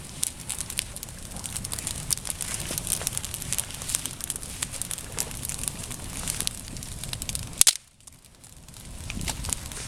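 Campfire crackling, with many small sharp snaps and pops. A louder pop comes near the end, and the sound briefly drops away after it.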